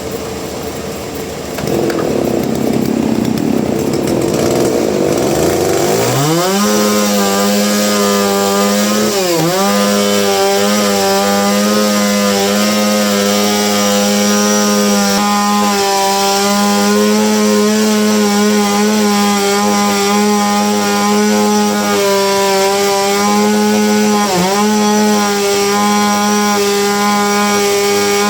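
Chainsaw cutting into a dense hardwood log: after a few seconds of rough noise, the saw settles into a loud, steady high-revving note, and its pitch dips briefly twice as the chain bogs in the cut.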